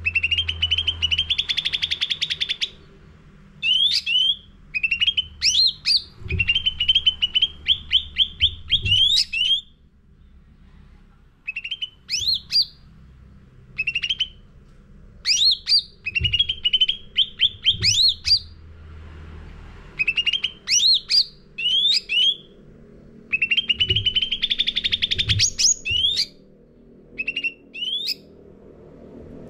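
Cucak ranting songbird singing continuously, phrases of fast chattering trills alternating with sharp upward-sweeping whistled notes, broken by short pauses.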